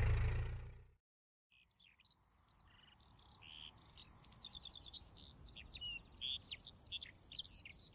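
A car passing on a cobbled road fades out in the first second. After a brief silence, songbirds chirp and sing in many quick, varied phrases.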